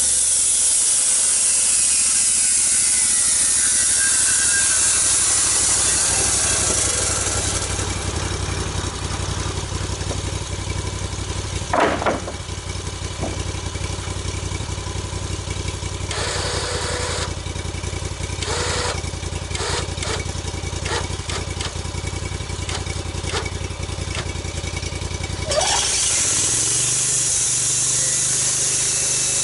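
Engine-driven saw milling a log: a loud hissing cut for the first several seconds, then the engine running steadily off the cut with a loud knock and several clanks, and the blade cutting into the wood again near the end.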